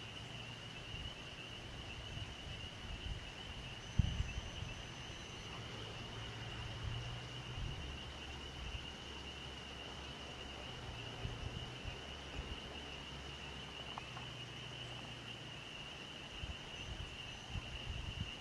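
Steady high-pitched trilling in the background, with a low rumble of wind on the microphone and a single knock about four seconds in.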